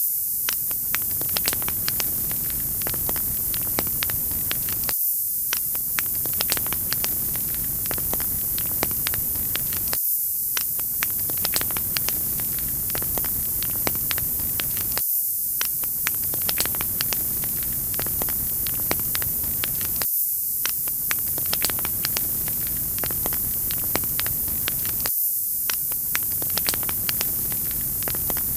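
Wood fire crackling: steady hiss with many sharp pops and snaps. The sound dips briefly about every five seconds, as a short recording looped over and over.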